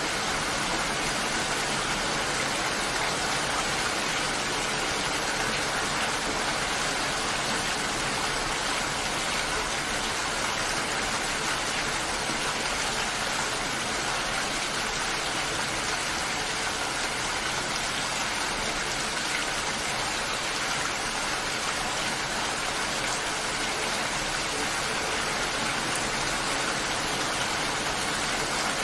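Steady rain, an even unbroken hiss that holds the same level throughout.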